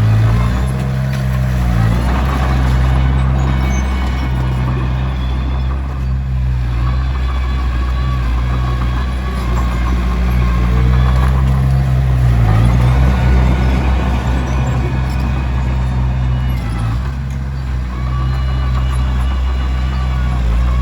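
Komatsu D21P bulldozer's diesel engine running steadily under load, its note dipping briefly a few times and then recovering.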